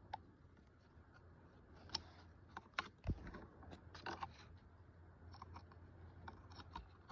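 Scattered small plastic clicks and knocks of electrical harness connectors being handled and plugged back in inside a car door, with one louder knock about three seconds in.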